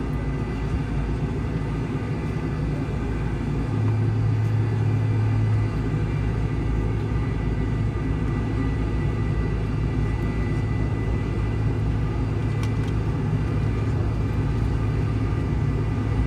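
McDonnell Douglas MD-83's rear-mounted Pratt & Whitney JT8D turbofan running after start, heard from inside the cabin as a steady rumble with a faint high whine. A low hum grows stronger about four seconds in.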